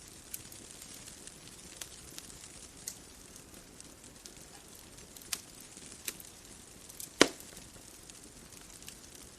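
Wood fire crackling: sparse, irregular sharp pops over a soft steady hiss, with the loudest pop about seven seconds in.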